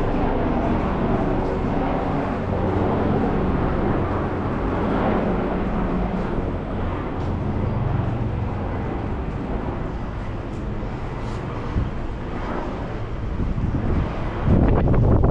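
An engine running steadily with a low hum that eases off a little partway through. Wind buffets the microphone near the end.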